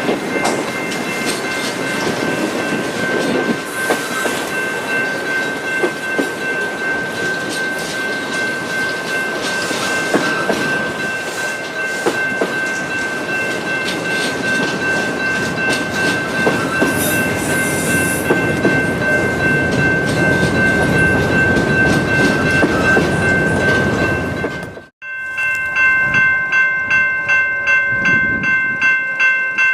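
Freight train rolling past, wheels clicking over rail joints, with steady high ringing tones alongside. After a cut near the end, a grade-crossing bell rings in even strokes about twice a second.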